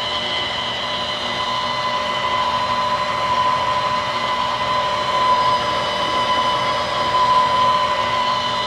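COOKLEE SM-1551 660 W stand mixer motor running at high speed, giving a steady high-pitched whine over its motor hum.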